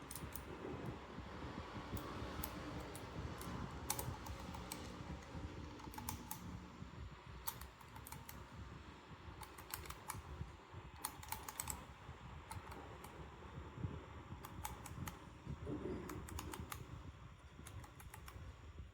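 Irregular small clicks and light taps of a Timemore Chestnut Slim Plus hand coffee grinder's parts being handled and fitted together.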